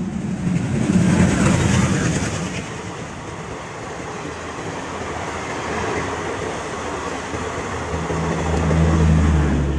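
Indian Railways passenger train running past at speed, its wheels and coaches giving a loud rushing rattle. A steady low hum comes in near the end.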